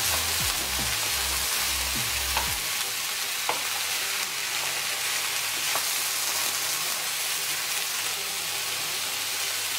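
Sliced vegetables sizzling steadily as they stir-fry in a hot frying pan, turned with a wooden spoon that knocks lightly against the pan a few times.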